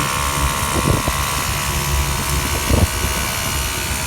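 Mini dirt bike's small engine running steadily, with a few brief knocks about a second in and again near three seconds.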